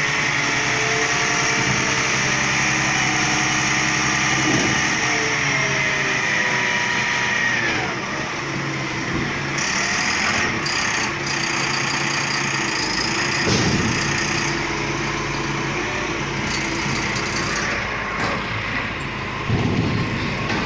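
Front-load garbage truck's engine running, its pitch rising and falling as it revs, with a high whine through the first half and a couple of short knocks later on.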